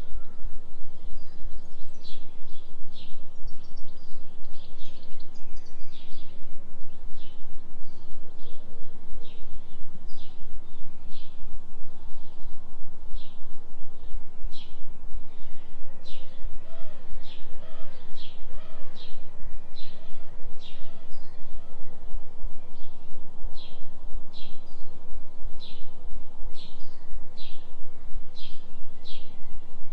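Songbirds chirping in short, repeated notes, about one or two a second, with a few fainter, lower calls partway through. Underneath runs a steady deep hum from a binaural delta-beat tone.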